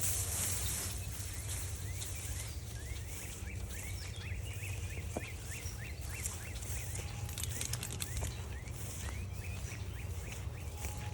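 Outdoor ambience with a songbird giving a rapid series of short chirping notes for several seconds, over a steady low rumble.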